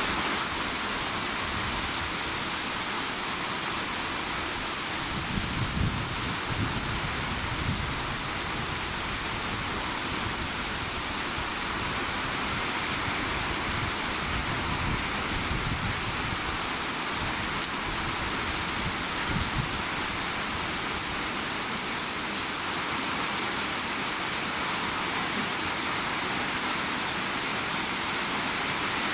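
Steady rain falling, an even hiss throughout. A few brief low rumbles come and go between about five and twenty seconds in.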